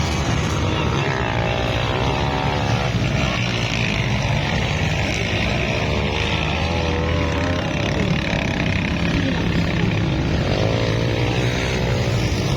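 Underbone motorcycle engines running and revving, their pitch wavering up and down, over a steady loud rush of noise.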